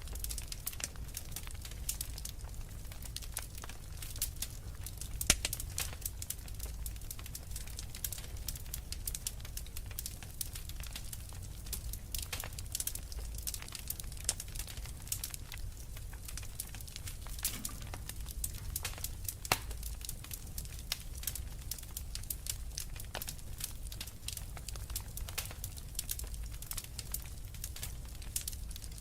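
Wood fire in a fireplace crackling steadily, a dense stream of small sharp pops and snaps over a low rumble of burning, with a couple of louder pops.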